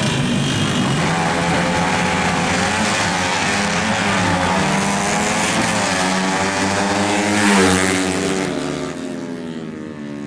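Drag-racing motorcycle engines revving hard, more than one engine note rising and falling in pitch. The sound peaks about three-quarters of the way through, then fades as the bikes pull away.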